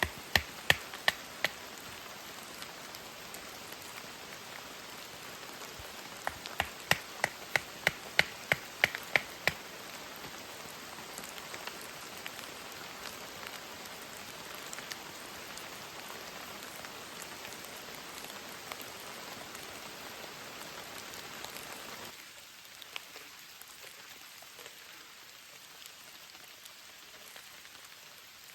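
Steady heavy rain falling, with two runs of sharp taps, each a few a second, near the start and again several seconds later. About three-quarters of the way through, the rain sound suddenly drops to a quieter hiss.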